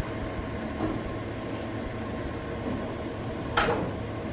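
A steady mechanical hum with faint steady tones, like a fan or air conditioner, and one short sharp sound about three and a half seconds in.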